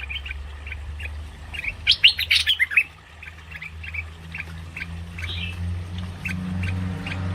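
Merbah lekir bulbul calling in quick runs of short chattering notes, the densest and loudest run about two seconds in, then sparser notes. A steady low hum runs underneath.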